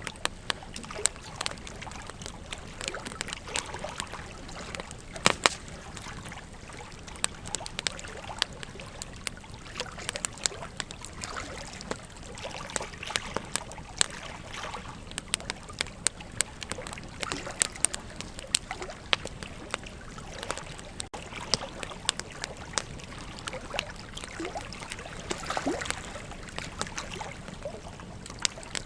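Burning wood crackling, with frequent irregular sharp pops, over the steady rush of a flowing river.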